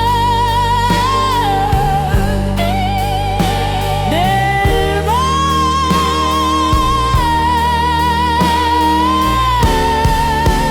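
Slow blues music without lyrics. A single lead line with wide vibrato slides between long held notes over a steady bass and plucked accompaniment.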